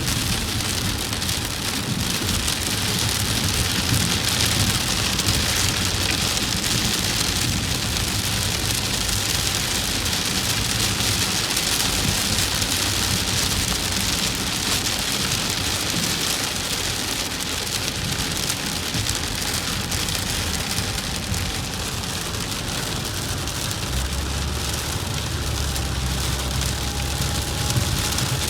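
Heavy rain beating on a moving vehicle, a steady hiss over a low drone of engine and road.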